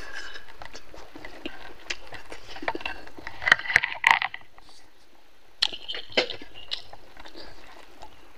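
Close-up eating sounds: chewing pork curry and rice with wet lip smacks and mouth clicks, loudest in a quick run about three and a half to four seconds in and again around six seconds in.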